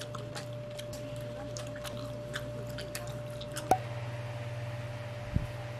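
Close-up eating sounds: wet chewing and small mouth and chopstick clicks while eating samgyetang, over a steady electrical hum. After about three and a half seconds a sharp click cuts the chewing off, leaving only the hum, with a dull thump near the end.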